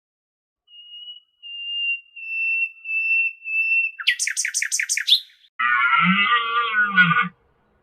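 Bird calls: a long, steady high whistle, then a quick run of about seven sharp chirps about four seconds in, then a harsh, buzzy call near the end.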